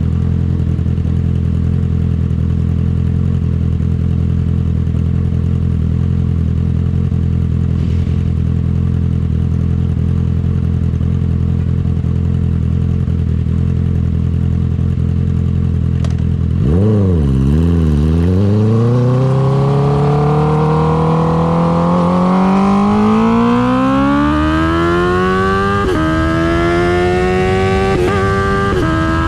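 A 2019 Honda CB650R's inline-four, through an Akrapovic titanium exhaust, idles steadily. About two-thirds of the way in, it revs and pulls away, its pitch climbing as it accelerates, with brief breaks near the end as it upshifts.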